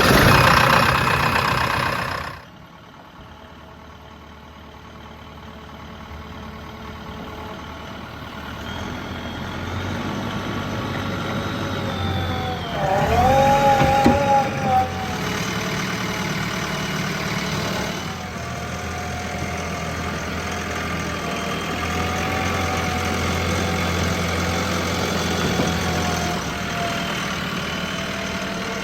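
Heavy diesel engines of a backhoe loader and tractors running, growing louder over the first several seconds, with a brief bending whine near the middle. It opens with a loud rushing noise that lasts about two seconds.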